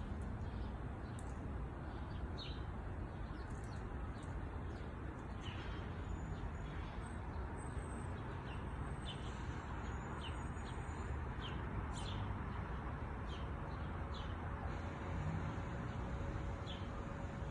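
Small birds chirping: short, high single chirps at irregular intervals, over a steady low background noise.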